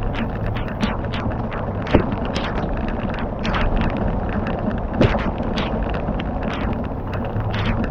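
Wood fire crackling, with irregular sharp pops over a steady hiss; the two loudest pops come about two and five seconds in.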